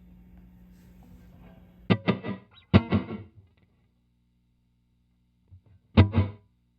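Electric guitar chords strummed through an ALABS Cetus reverb pedal on its room setting: a quick group of strums about two seconds in, each dying away within about half a second, then another chord near the end. A steady low hum comes before the first strum.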